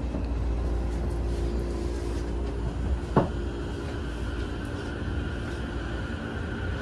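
Cabin running sound of a JR East E231 series 0 commuter train moving off from a station: a low rumble with a steady motor whine, and one sharp click about three seconds in.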